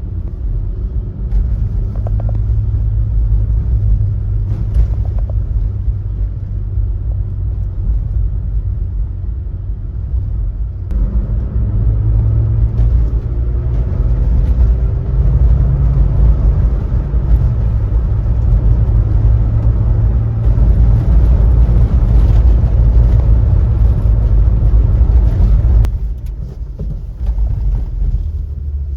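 Subaru Sambar Dias van's rear-mounted four-cylinder engine and road noise while driving: a steady low rumble that grows louder with faint rising pitch about eleven seconds in, and drops suddenly near the end.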